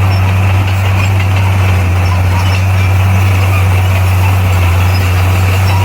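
Komatsu D58P bulldozer's diesel engine running steadily, a constant low drone.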